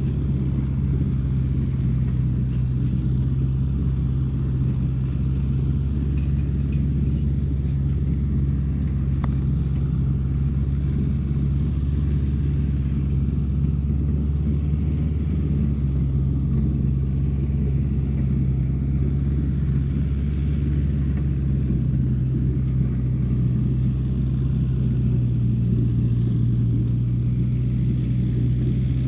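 Tractor engine running at a steady speed, a continuous low drone with no change in pitch.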